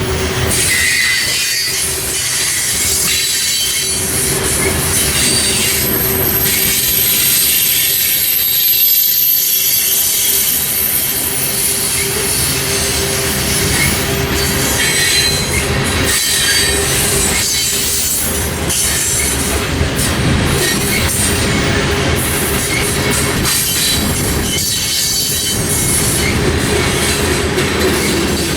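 Freight train rolling past with steel wheels squealing against the rails, including a high thin whine from about six to fourteen seconds in, and repeated clicks as the wheels pass over rail joints.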